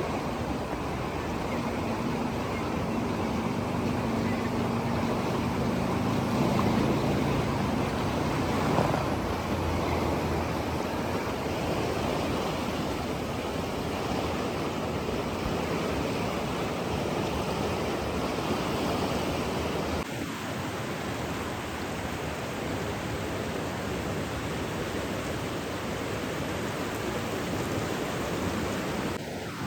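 Steady rushing water, an even hiss of flowing or breaking water with no distinct splashes. A faint low hum sits under it for roughly the first nine seconds.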